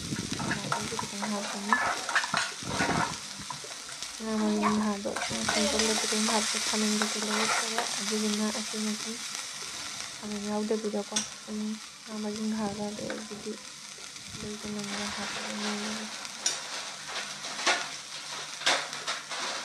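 Sliced onions and green chillies sizzling as they fry in a metal kadai, stirred and scraped with a metal spatula. A low steady hum starts and stops several times in the middle.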